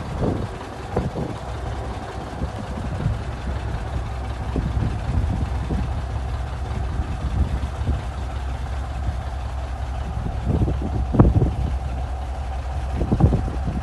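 Diesel engine of a 1980 Ford CL9000 semi truck idling with a steady low rumble. A couple of short, sharper knocks come near the end.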